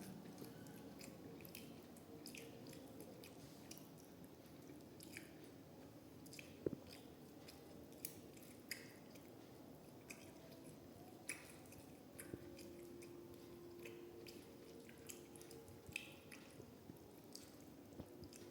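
Faint close-miked chewing of soft rice and fish curry, with irregular small wet clicks and lip smacks.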